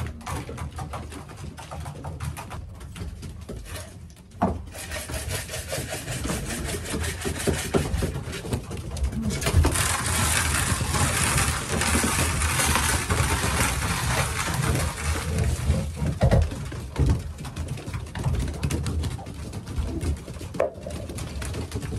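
Racing pigeons cooing in their loft, a low murmur throughout. In the middle, a rustling hiss lasts about five seconds, and a few knocks are heard.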